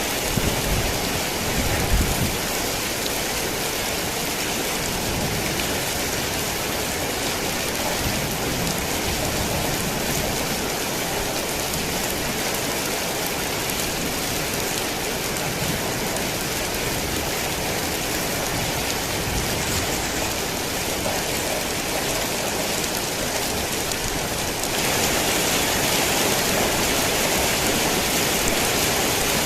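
Heavy rain falling steadily, with a brief low rumble about two seconds in. About 25 seconds in, the rain gets louder and hissier.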